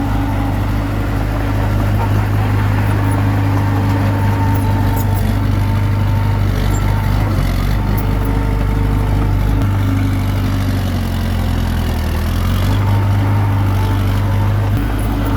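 Diesel engine of a Komatsu D21P small crawler bulldozer running steadily at working speed. Its note shifts slightly a few times as the load changes.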